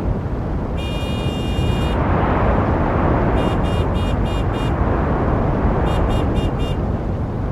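Steady road-traffic noise from passing cars. Over it, a high-pitched tone sounds for about a second near the start. Later come two quick runs of about five short high beeps each.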